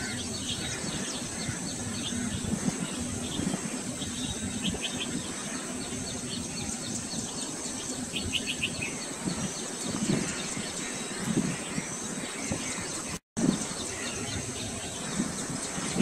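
Birds calling in the open, with short runs of quick high chirps over a steady background hiss. The sound drops out for a moment about three-quarters of the way through.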